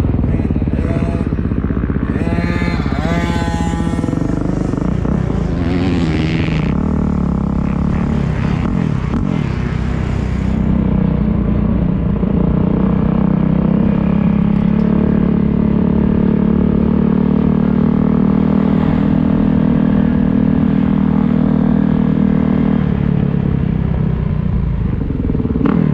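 Motocross bike engine running hard, its revs rising and falling a few seconds in, then held at a steady pitch for about ten seconds before easing off near the end.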